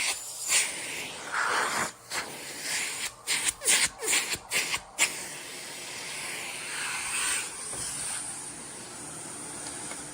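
Miele S8 Cat and Dog canister vacuum running with its power nozzle, a steady rushing hiss of airflow. Through the first half it dips and surges quickly several times, then runs evenly.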